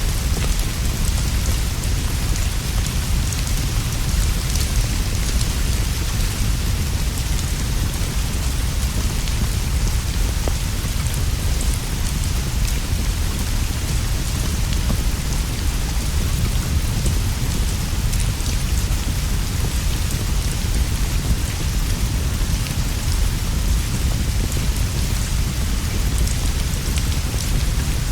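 Steady rain with a deep, continuous low rumble underneath and scattered faint crackles of a wood fire; it runs on without change.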